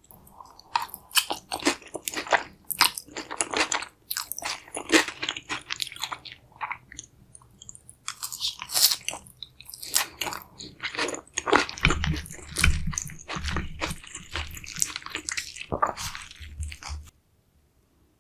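Close-miked crunching bites and chewing of a crisp deep-fried carnitas chimichanga, a steady run of crackles with soft low thuds in the later part, cutting off suddenly near the end.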